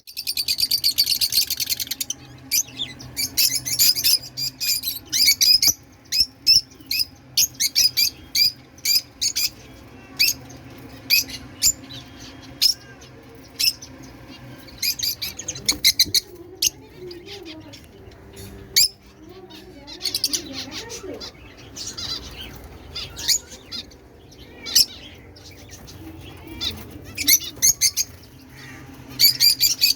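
Many caged pet birds chirping and squawking in short, sharp high calls, several a second at times, with brief pauses between bursts.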